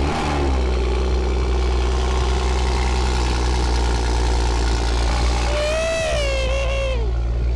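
BMW F30 335i's turbocharged straight-six idling steadily at the exhaust tips just after a cold start, its revs settling from the start-up flare in the first moment.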